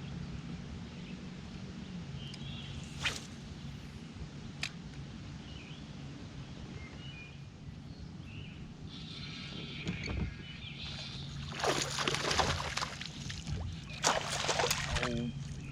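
Open-water ambience with a steady low hum and light wind, a couple of sharp clicks, then two splashy rushes of noise in the last few seconds as a hooked bass is brought to the boat.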